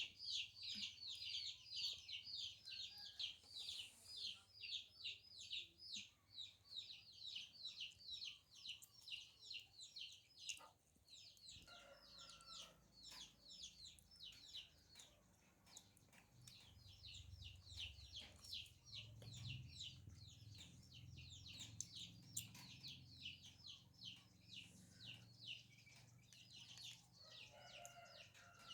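Chicks peeping continuously, rapid high peeps at about four a second, faint, with a short break about a third of the way through.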